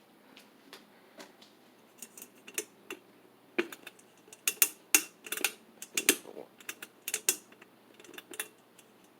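Irregular clicks and light knocks from hands working on a stopped ceiling fan, most of them in the middle of the stretch, while its direction is set back to downdraft.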